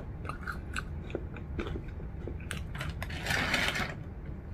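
Close-up chewing of crispy air-fried curly fries, with scattered light clicks from the jaw. A louder crunchy rustle comes about three seconds in.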